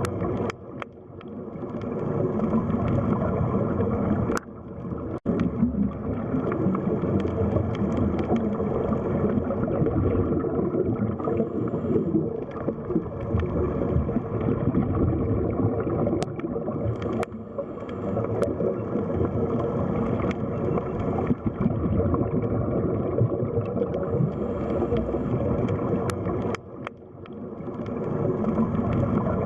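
Underwater ambience: a steady low rush of water, dropping away briefly a few times, with a few sharp clicks.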